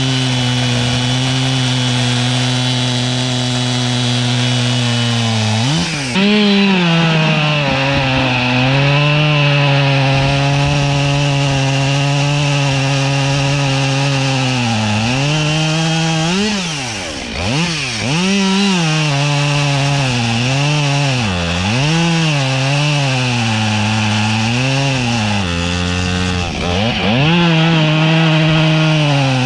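Gas chainsaw at full throttle cutting through wood. The engine holds a steady pitch at first, grows louder about six seconds in, then sags and recovers in pitch again and again as the chain bites.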